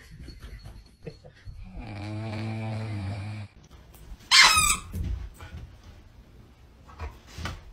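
A dog snoring: a steady, low buzzing snore lasting nearly two seconds, starting about two seconds in. Just after four seconds comes a short, loud, high squeak with a wavering pitch.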